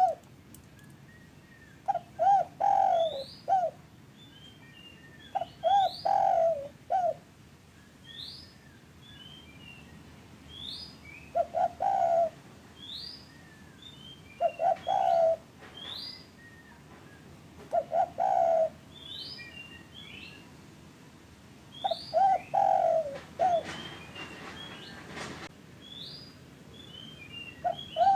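Doves cooing in short repeated phrases every few seconds, with high, quick upward chirps from other small birds in between. It is a dove-call lure track used to prompt caged doves to start singing.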